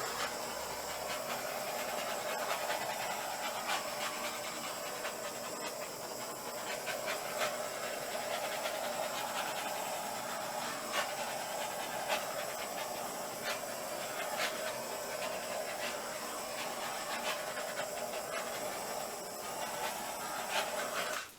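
Handheld butane torch burning with a steady hiss, its flame played over wet acrylic paint to bring silicone cells up to the surface. It shuts off abruptly at the end.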